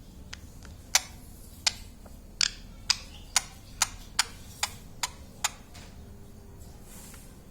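Pet ring-necked parrot making about ten sharp clicks, roughly two a second and speeding up slightly, which stop about halfway through.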